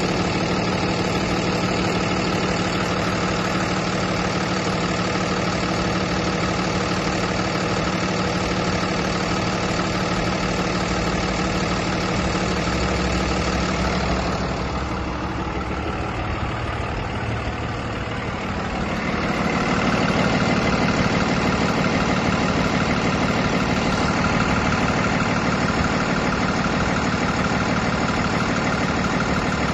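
A vehicle engine idling steadily. About halfway through it briefly gets a little quieter and changes in tone, then settles back to a slightly louder, steady idle.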